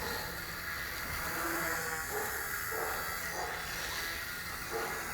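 Wltoys V977 micro collective-pitch RC helicopter hovering and flying steadily. Its brushless main motor and rotor blades give a steady high buzzing whir.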